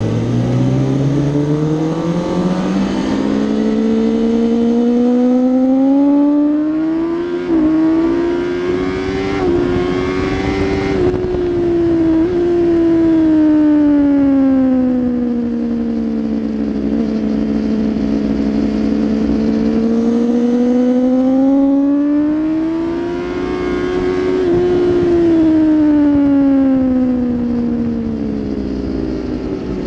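Onboard sound of a 2016 Kawasaki ZX-10R's inline-four engine under hard riding. The revs climb over the first ten seconds, fall back to a low point past the middle, climb again and drop away near the end, over a steady rush of noise.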